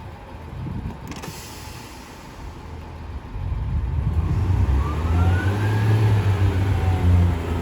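A Class 143 Pacer diesel multiple unit pulls away. After a quiet start with a brief knock about a second in, its underfloor diesel engines throttle up from about three seconds in into a loud low drone, with a faint rising whine above it.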